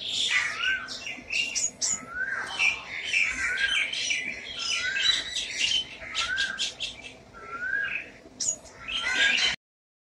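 Small birds chirping in a tree: one call, a short note that rises and dips, repeats about once a second over a busy mix of quicker, higher chirps. The sound cuts off abruptly near the end.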